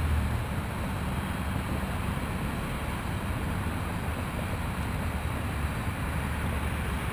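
Steady whirring of a Parrot AR.Drone quadcopter's rotors in flight, mixed with a low wind rumble on the microphone.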